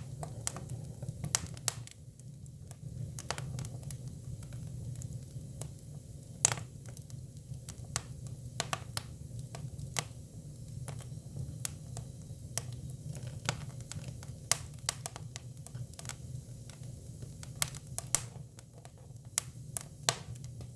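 Hinoki cypress firewood burning, crackling with irregular sharp pops, several a second, over a steady low rumble.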